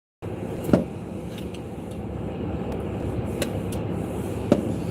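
Steady low rumble and hiss inside a car, with two sharp taps, one about a second in and one near the end. The sound drops out completely for a moment at the start.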